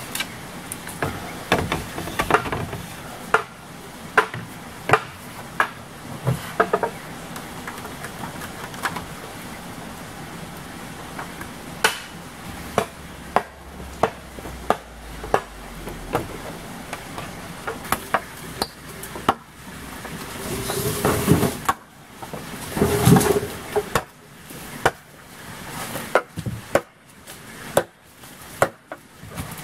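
Irregular sharp knocks and whacks of hand-tool work on wood or bamboo, roughly one a second at first, with a denser, scraping stretch about two-thirds of the way through before the knocks resume.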